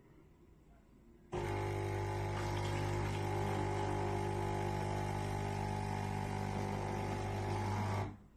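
Melitta Latticia OT F300-101 fully automatic coffee machine running, a steady humming buzz that switches on abruptly and cuts off about seven seconds later.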